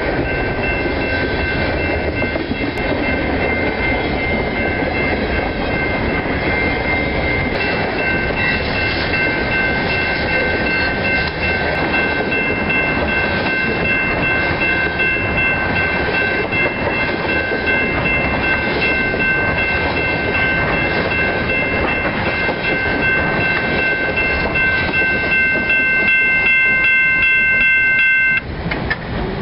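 Empty coal train's hopper cars rolling past at slow speed: a steady rumble and clatter of wheels on rail, with a steady high-pitched ringing tone over it. The sound cuts off abruptly near the end.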